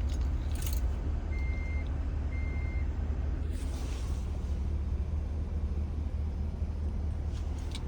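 Two short electronic beeps from the 2026 Cadillac Escalade ESV's controls, each about half a second long and a second apart, over a steady low rumble.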